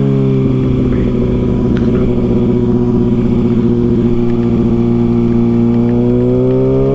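Kawasaki ZX-6R inline-four engine running at a steady cruise, its pitch easing slightly at first and rising a little near the end, over low wind and road rumble.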